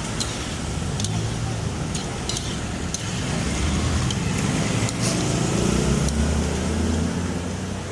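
A motor vehicle's engine running nearby, rising and falling as if passing, with a few sharp clicks.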